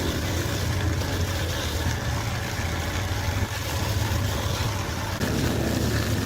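An engine or motor running steadily with a low hum.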